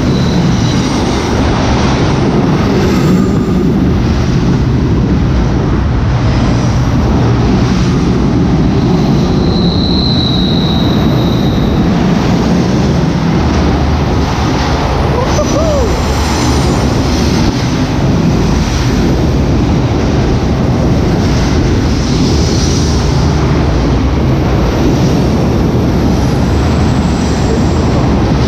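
Florida East Coast Railway freight train passing at very close range: a loud, steady rumble of wheels on rail. About ten seconds in, a high wheel squeal rises for a couple of seconds as the train takes the curve.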